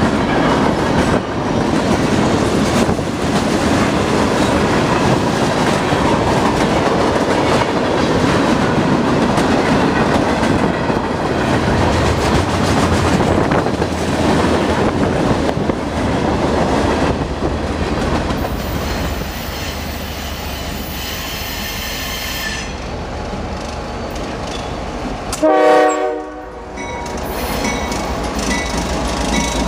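Freight cars rolling past with a steady rumble and clatter of wheels on rail joints. About 25 seconds in, a short loud train horn blast, then the low steady rumble of an approaching diesel locomotive.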